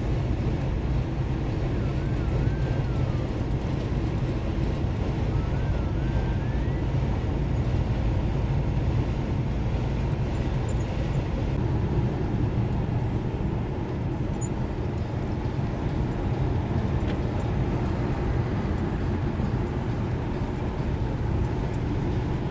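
Steady drone of a semi truck's engine and road noise heard inside the cab while driving.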